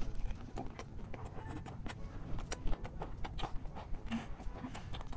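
Close-miked chewing of chatpate, a crisp puffed-rice snack: irregular crunches and mouth clicks, with a steady low rumble underneath.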